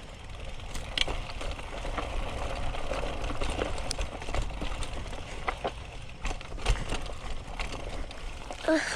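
Mountain bike rolling fast downhill on a dirt trail: tyre noise on the ground and wind rumbling on the microphone, with many sharp rattles and knocks from the bike over bumps. A brief pitched squeal comes near the end.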